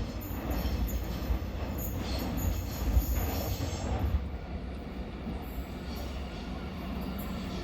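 X'trapolis electric multiple unit train running on the track, a steady low rumble that swells about two to four seconds in, with brief high-pitched wheel squeals.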